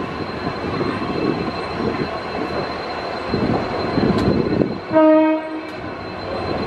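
MEMU electric multiple-unit train rolling slowly along a platform with a steady rumble of wheels on rails, heard from its doorway. About five seconds in, a horn sounds once for under a second, the loudest sound here.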